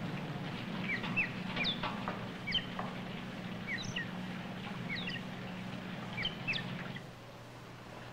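Small bird chirping in short, high, irregular chirps over a low steady hum; the chirps stop about seven seconds in.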